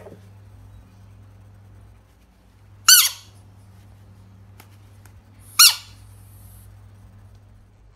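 Two short squeaks, each sliding down in pitch, about three seconds apart, over a faint steady low hum.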